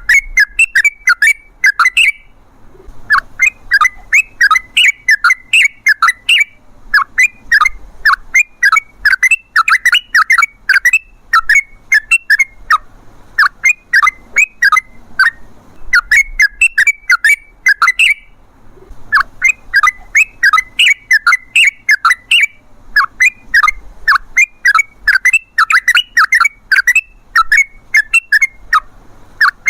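Yellow-vented bulbul (trucukan) singing long, fast runs of short, bubbly whistled notes, several a second. There are brief pauses about two seconds in and again about eighteen seconds in.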